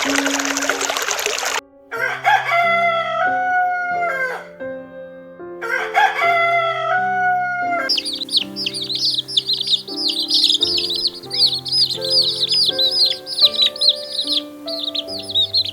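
Running water briefly, then a rooster crowing twice, each crow a long call falling at the end. After that comes a dense stretch of rapid, high chirping from many small birds, over background music.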